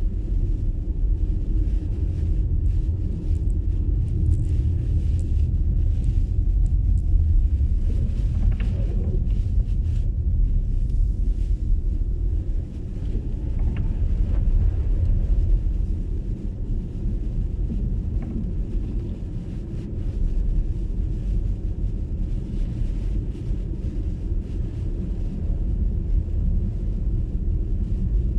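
Road and tyre noise from an MG ZS EV electric car driving through snow: a steady low rumble.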